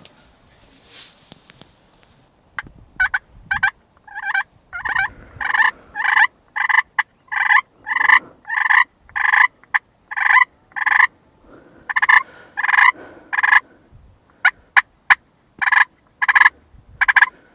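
Wild turkey calling: a long series of short, evenly spaced yelps, about two a second, beginning a couple of seconds in, with a brief pause about two-thirds of the way through.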